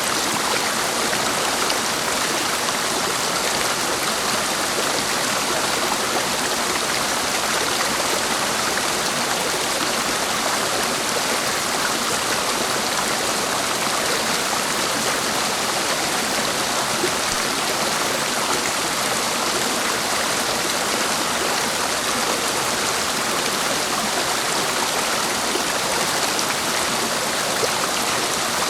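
Clear mountain stream running over rocks: a steady, even splashing with no pauses.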